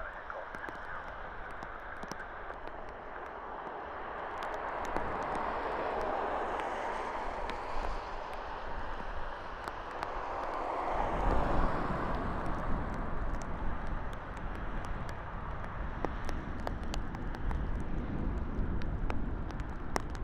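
The Airbus A220's twin Pratt & Whitney PW1500G geared turbofan engines as it comes in to land. The jet noise builds to its loudest about halfway through, then carries on with a deeper rumble. Scattered sharp ticks run through it throughout.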